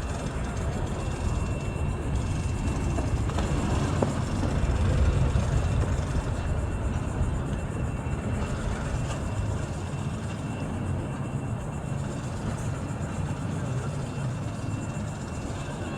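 Steady low motor rumble with a noisy haze, swelling briefly about five seconds in, and a faint steady high tone.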